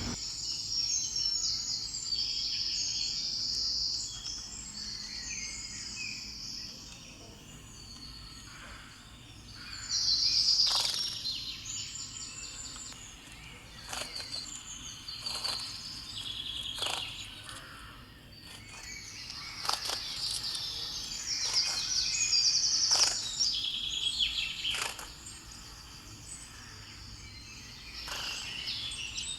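Birds chirping and trilling, with now and then a short sharp call, over steady background noise.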